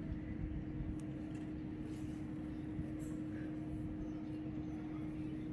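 A steady mechanical hum holding one constant tone over a low rumble, with a few faint sharp clicks about one, two and three seconds in.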